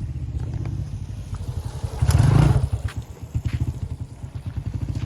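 Wind buffeting the microphone as a steady low rumble, with a louder gust about two seconds in.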